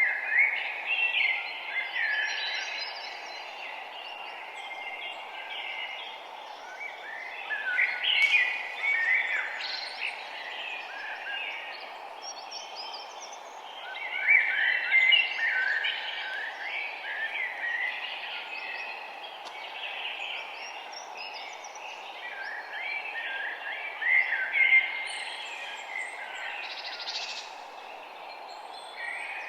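Songbirds singing in bursts of quick, jumping chirps and warbled phrases, loudest near the start and about 8, 15 and 25 seconds in, over a steady low background hiss.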